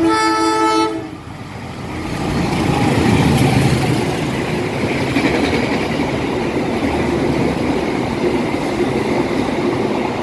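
A train horn sounds one loud blast of about a second. It is followed by the rumble and wheel noise of a passing train, which builds up and keeps going.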